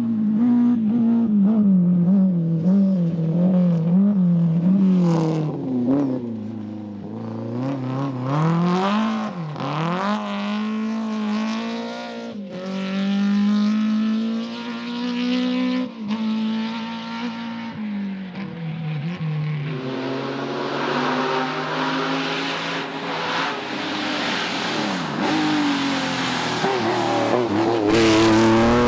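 Rally car engines at high revs on a special stage, the pitch rising and falling over and over as the drivers change gear and lift and re-apply the throttle. One car's note drops away around two-thirds of the way through, then another car's engine builds up loud toward the end.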